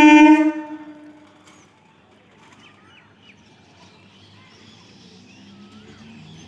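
An approaching electric local train's horn ends about half a second in and fades away over the next second. Birds then chirp while the train's low running hum slowly grows louder as it nears.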